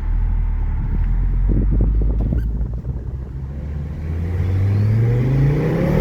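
Car engine running loud and low, then revving up in a steady climb in pitch over the last two seconds.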